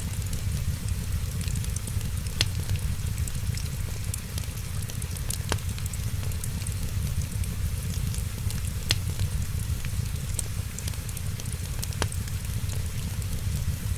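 Wood fire in a fireplace crackling, with sharp single pops every two to three seconds and fine ticking over a steady low rumble.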